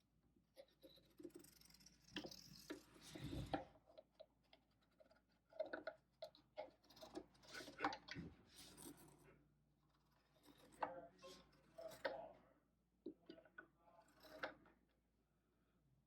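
Faint handling sounds: irregular scraping and rustling with light clicks, as of hands working with cardboard and small objects.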